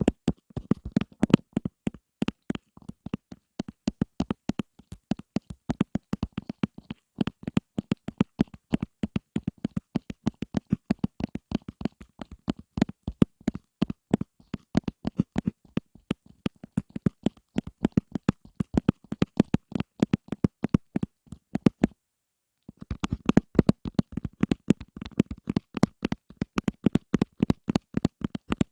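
Rapid ASMR tapping, one short sharp tap after another, several a second, with one short break late on.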